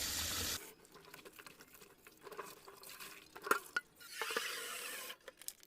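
Tap water running, shut off about half a second in, then water sloshing and dripping as baby clothes are rinsed by hand in a basin.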